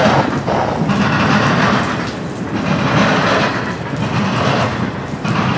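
A train rolling past close by: a steady, loud rush of wheels on rail with clatter from the cars, swelling and easing every second or two.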